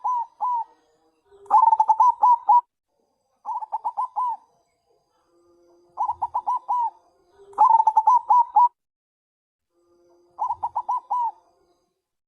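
Zebra dove (perkutut bangkok) calling in repeated phrases of rapid cooing notes, about six phrases, alternating short and longer runs. This is the type of call played to lure other doves into answering.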